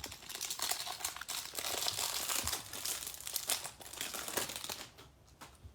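Wrapper of a baseball card pack being torn open and crinkled by hand for about five seconds, dying away near the end.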